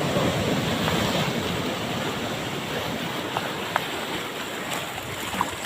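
Ocean surf washing onto the beach in a steady rush of breaking waves.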